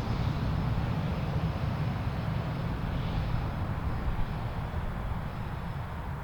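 Jet airliner rumble: a steady, deep noise that eases off slightly toward the end.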